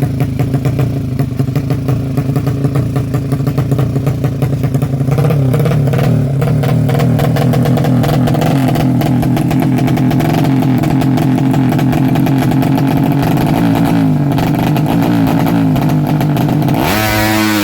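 Honda Karisma single-cylinder motorcycle engine running steadily at idle while its idle is being set. Its speed creeps up about five seconds in, sags a little near the end, then is blipped up sharply just before the end.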